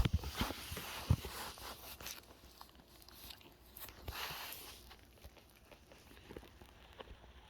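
Puppy chewing and biting on a rubber band, a run of sharp clicks and crunchy bites. They are busiest in the first two seconds, come again around four seconds in, and thin out to faint scattered ticks after that.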